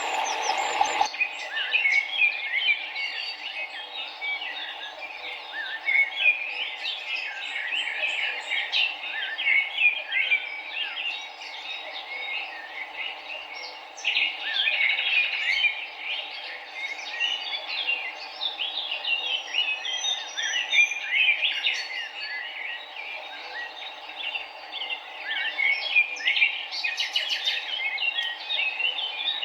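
A dense chorus of many small birds chirping and twittering without pause, over a steady background of running river water.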